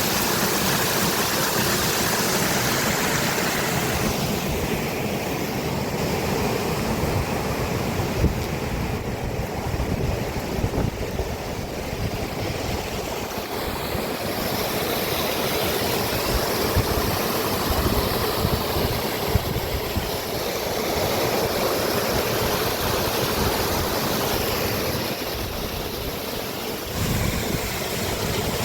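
Steady rush of storm water, with wind buffeting the microphone and a few brief knocks.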